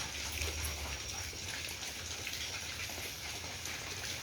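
Heavy rain falling steadily, an even hiss with faint patter.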